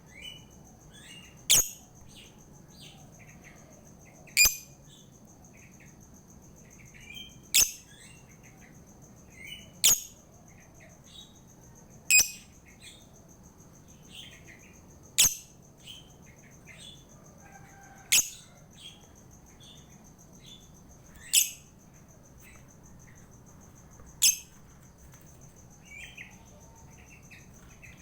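Lovebird calling: a loud, sharp, shrill call about every three seconds, with quieter short twittering chirps in between. A faint steady high-pitched tone runs underneath.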